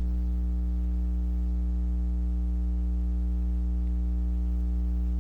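Steady electrical mains hum with a ladder of overtones above it, a constant buzzing drone that does not change.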